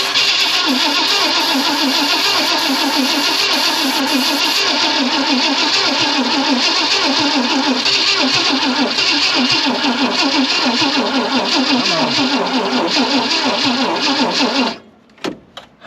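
The starter cranks the 1965 Ford Thunderbird's V8 in a long, steady churn without it catching, then cuts off abruptly near the end. The owner puts the failure to start down to a weakening battery.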